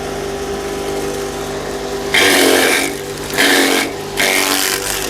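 Small electric grass chopper running steadily with a constant motor hum, and three loud bursts of chopping noise about two, three and a half and four and a quarter seconds in, as grass stalks are fed into the blades.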